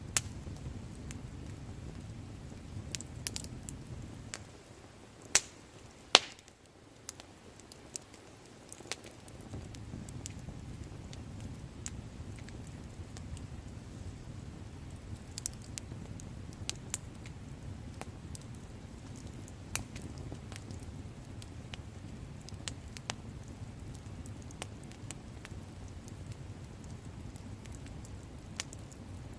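Wood campfire crackling, with sharp pops scattered irregularly throughout, the loudest about six seconds in, over a steady low rumble. The rumble drops away for a few seconds about a fifth of the way in, then returns.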